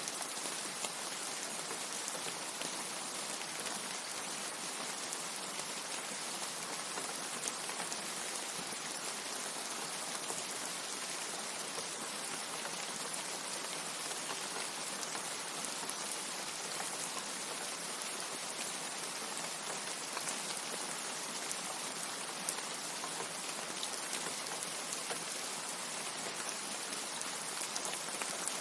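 Steady, even rain with a few faint separate drop ticks.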